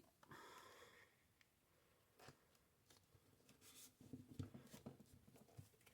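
Faint rustling and light taps of paper and card being handled and pressed into place, with a short rustle at the start and a cluster of small taps near the end.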